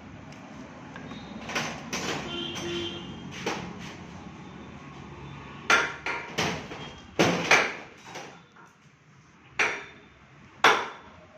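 A series of sharp, irregularly spaced knocks and clanks, about nine in all, over a low steady hum.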